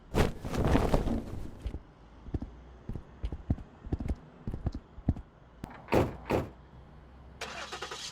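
A run of sound effects: a clatter about a second long, then a series of light knocks and clicks, two heavier knocks close together, and a short rattle near the end.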